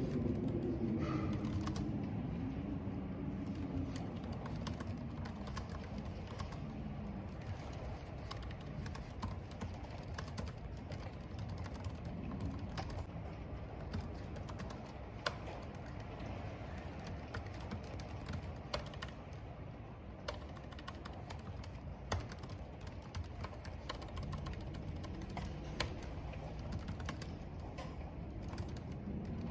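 Computer keyboard typing: irregular runs of key clicks over a steady low rumble of wind and rain. A low droning tone fades out over the first several seconds.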